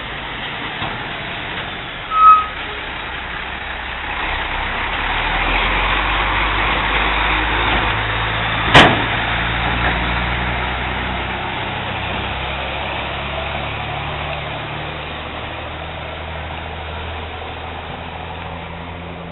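Motor vehicle engine running, getting louder a few seconds in and then slowly fading. A brief loud high blip about two seconds in and a sharp click about nine seconds in.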